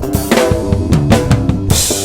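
Drum kit playing a busy run of rapid snare and bass drum hits over electric bass guitar notes, with a cymbal crash near the end.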